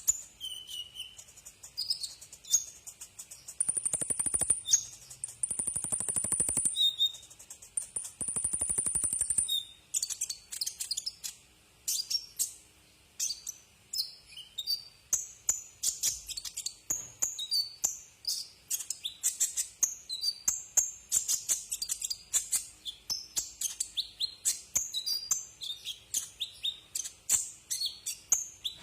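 Kolibri ninja sunbird singing: rapid, high-pitched chirps and twitters, with three long, thin high trills between about four and nine seconds in, then fast chattering chirps.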